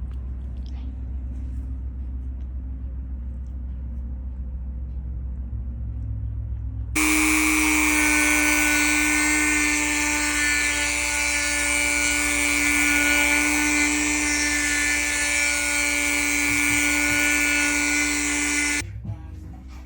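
For the first seven seconds only a low steady hum. Then a high-speed power tool starts up abruptly and runs at a steady high whine while it widens the cutouts in a wine-glass drawer. It stops suddenly about a second before the end.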